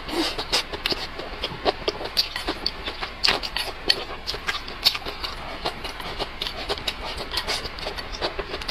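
Close-up eating sounds: a person chewing and smacking a mouthful of rice and vegetables, a quick irregular run of small wet clicks and crackles.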